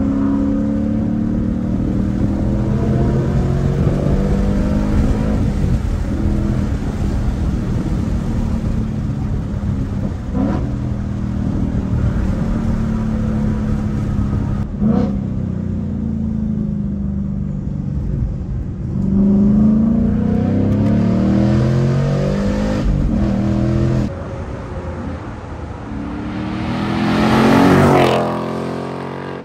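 2022 Ford Mustang Mach 1's 5.0-litre V8, fitted with a Steeda aftermarket mid pipe and factory active exhaust, heard from inside the cabin as it runs up through the gears of its six-speed manual. The revs climb in each gear and drop at each upshift, then jump up again on a downshift. Near the end a Mustang V8 drives past outside, swelling to the loudest point and then fading away.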